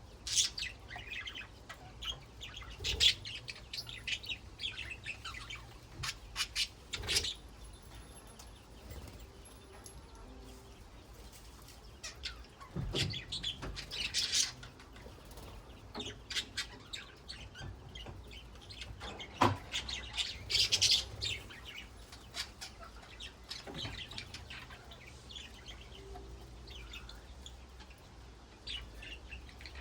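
Budgerigars chattering and warbling in irregular bursts of quick chirps, with a few sharp knocks among them.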